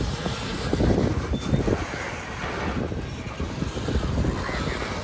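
Norfolk Southern freight train rolling past: a steady rumble of wheels on the rails.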